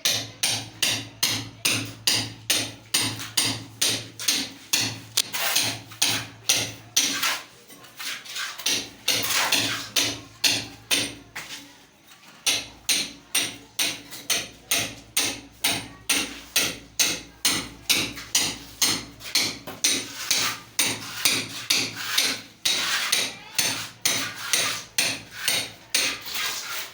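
Hammer blows struck in a steady rhythm, about three a second, each a sharp ringing knock, with short breaks about 8 and 12 seconds in.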